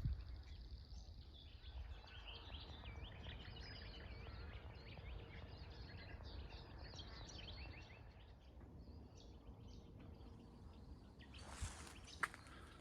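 Small birds chirping and twittering in many quick rising and falling notes, over a low rumble of wind on the microphone. A brief rustle and a click come near the end.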